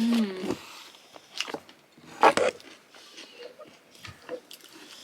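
Close-up mouth sounds of someone eating kodo ko dhido with meat curry: biting and chewing, with a short hum-like voiced sound at the start and a louder wet bite or slurp a little past two seconds in.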